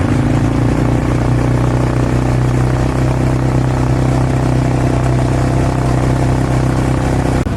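An engine running steadily at idle, one even low hum that holds the same pitch without revving.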